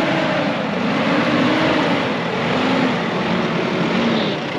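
Off-road 4x4's engine revving up and down in repeated surges, about one a second, as it works under load through a tricky spot, with a steady rushing noise underneath.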